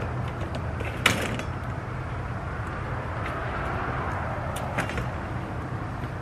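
Steady outdoor background noise with a low hum, a sharp knock about a second in, and two lighter clicks a little before the end.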